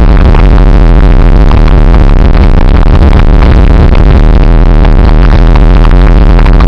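Loud, distorted rumble and rattle of a roller coaster train running on its track, overloading the microphone with no let-up.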